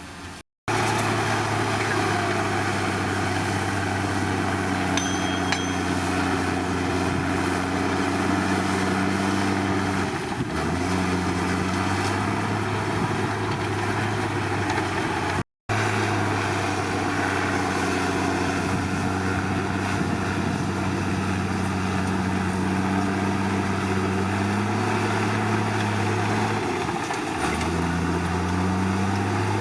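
Bulldozer diesel engine running steadily at working revs. Its note dips and shifts about ten seconds in and again near the end. The sound cuts out completely for a split second twice.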